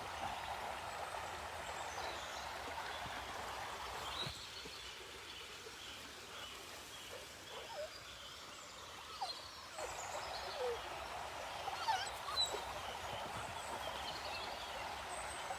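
River water running, with birds giving many short calls over it. The water sound fades about four seconds in and returns near ten seconds.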